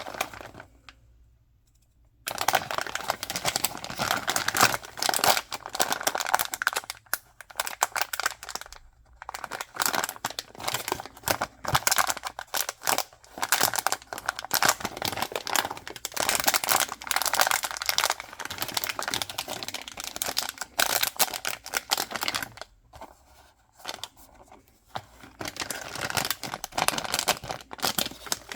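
Packaging crinkling and tearing as blind-box toys are unwrapped by hand: irregular crackly handling, with a quiet pause near the start and another a little before the end.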